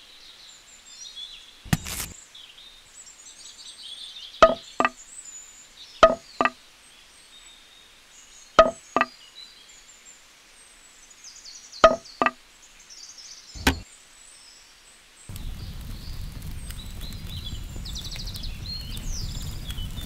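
Short wooden knocks, mostly in quick pairs every couple of seconds, as small sticks are set down for a miniature cooking fire, over faint high bird chirps. About three-quarters of the way in, the steady crackling hiss of a small wood fire starts.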